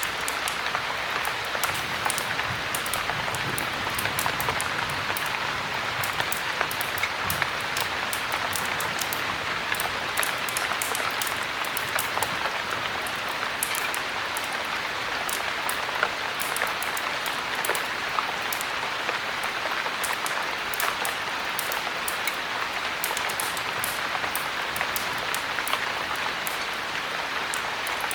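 Steady heavy rain, with many small, sharp crackles from a wood fire scattered through it.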